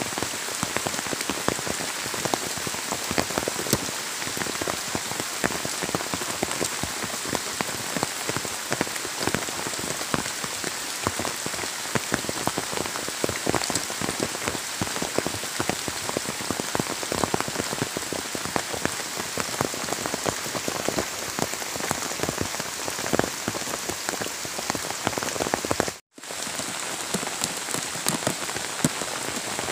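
Steady, heavy rain falling on the leaves of a dense garden, with many separate drop hits close by. The sound breaks off for a split second near the end.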